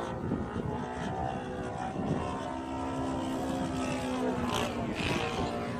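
Radio-controlled Seagull Edge 540 model plane's engine and propeller running steadily in flight.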